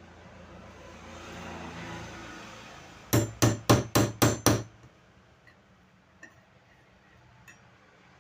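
Hammer striking a pointed punch set on the rivet that holds a table fan motor's shaft bush, knocking the rivet out: six quick, sharp blows about three a second, a little after three seconds in.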